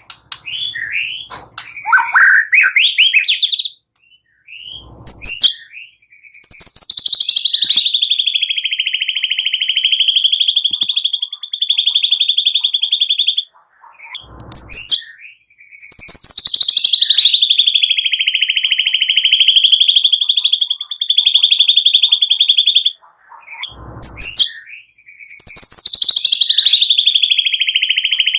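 Small songbirds calling: prenjak and cililin calls used as a murai batu training recording. Short rising and falling chirps come first. Then three long, fast-pulsed buzzy trills follow, each starting high, dropping and then holding steady for several seconds, with short chirps and a faint low thump between them.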